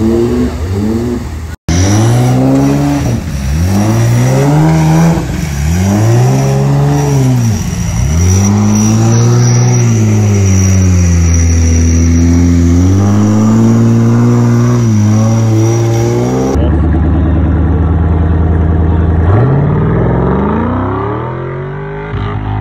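Four-wheel-drive engine revving hard in repeated surges, the revs climbing and dropping about once a second as the vehicle churns through deep mud, then held high for a few seconds.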